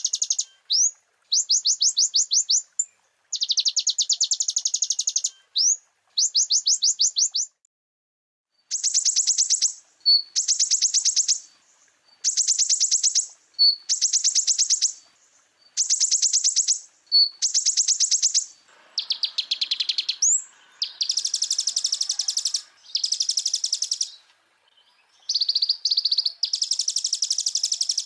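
Kolibri ninja (konin) sunbird singing its full, imitation-packed song: bursts of fast, high trilled notes, each one to two seconds long with short pauses between them. From about two-thirds of the way in, the song turns into a denser, more varied warbling.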